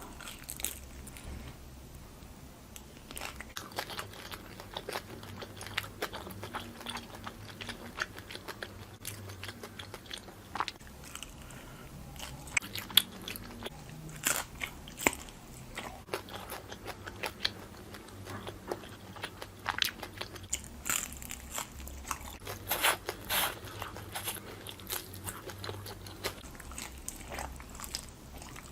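A person biting and chewing grilled barbecue skewer food, with irregular crunching clicks throughout.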